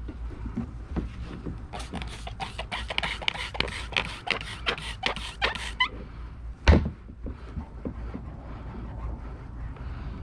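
Hand trigger spray bottle being pumped rapidly, about five hissing squirts a second for some four seconds, followed by a single loud thump.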